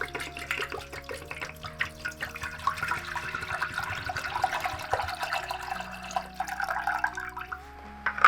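Water splashing and trickling, with many small clicks, over soft background music.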